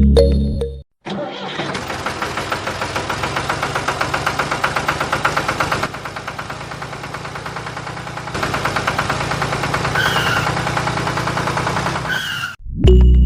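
Small motor of a homemade water-pump tractor model running with a rapid, even rattle. It is quieter for a couple of seconds in the middle and cuts off near the end.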